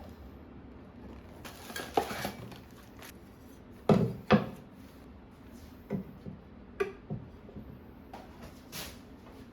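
Hard objects being handled and set down: scattered light clatters and knocks, with two sharper knocks close together about four seconds in.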